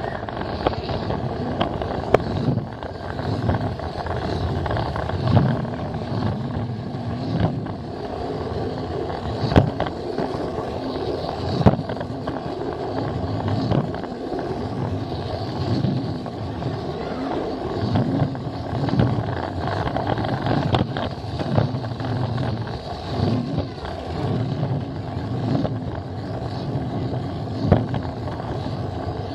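Battery-powered Plarail toy train heard from on board, its small motor running steadily as its plastic wheels rattle along the track, with occasional sharp clicks several seconds apart.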